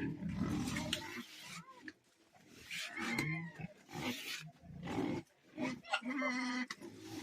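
Domestic pigs grunting, with short high-pitched squeals cutting in a few times and a longer squeal near the end.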